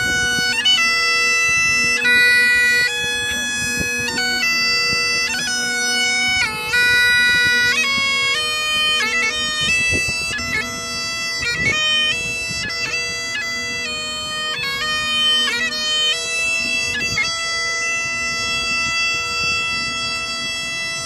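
Bagpipes playing a tune: steady drones hold one low note under the chanter's melody, which is broken by quick grace notes. The tune stops abruptly just at the end.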